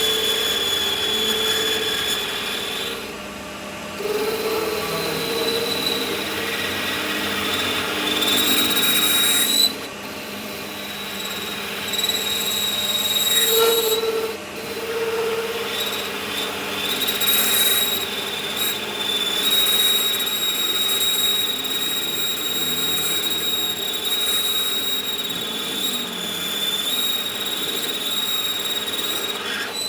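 A power tool working metal, running with a steady high whine over a harsh scraping noise, with short breaks a few times.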